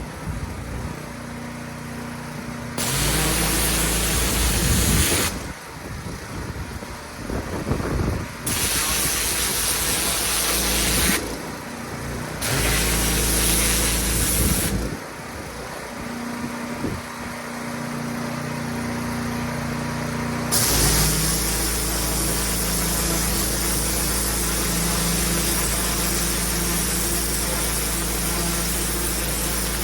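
Pressure washer's engine running, with several bursts of high-pressure water spraying that stop and start. From about two-thirds of the way through, the spraying runs on without a break.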